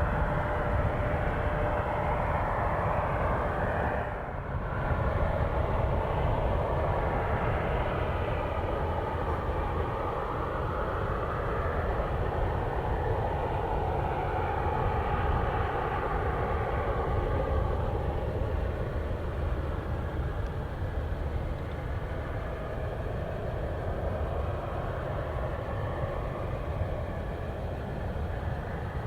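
Boeing 767 freighter's jet engines running steadily at low power: a continuous rumble with a hiss over it, and a faint steady whine in the first few seconds.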